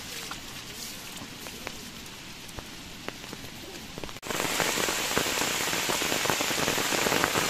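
Rain falling, with scattered drops ticking. About four seconds in the sound cuts abruptly to a much louder, dense hiss of rain, thick with drop strikes.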